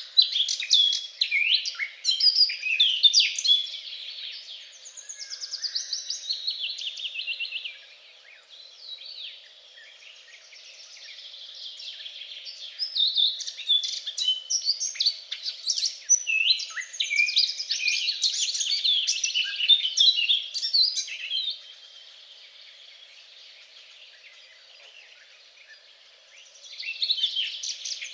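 Songbirds singing: overlapping rapid chirps and trills. The song thins out twice, once around a third of the way in and again for several seconds later on, then picks up again near the end.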